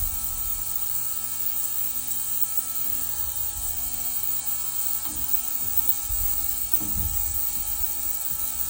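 Steady electric buzz of a heated ultrasonic parts cleaner running its cycle, with low handling bumps and rubbing around five to seven seconds in.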